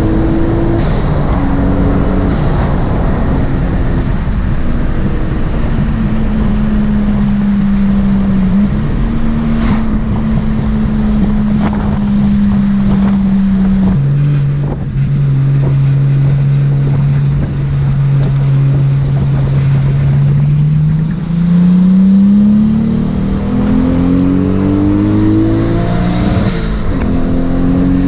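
Turbocharged 2.0 L 1G-FE inline-six in a Lexus IS200 being driven: the engine note holds steady, drops sharply about halfway through at a gear change, then climbs steadily under acceleration and drops again near the end at the next shift.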